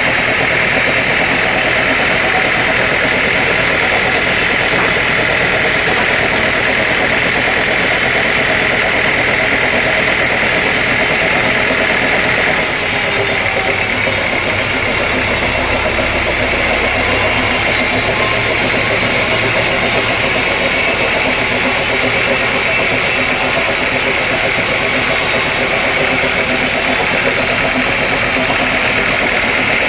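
Sawmill machinery running steadily and loudly, a continuous engine-like drone with a high whine; the tone shifts slightly about 13 seconds in.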